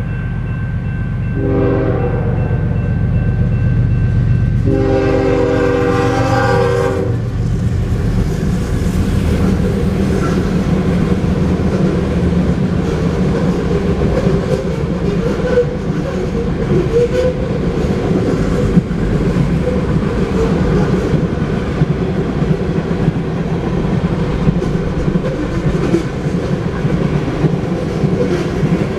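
Freight train passing close by. The locomotive horn sounds a short blast, then a longer one about three seconds later, over the low rumble of the diesel locomotives. After that the freight cars roll past with a steady rolling noise and frequent wheel clicks.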